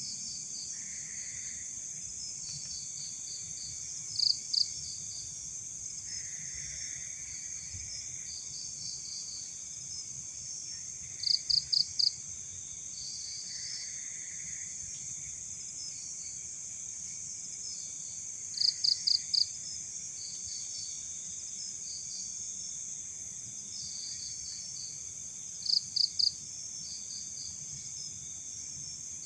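Night-time chorus of crickets and other insects: a steady high-pitched trill, with a louder chirp of three or four quick pulses repeating about every seven seconds and fainter pulsed calls in between.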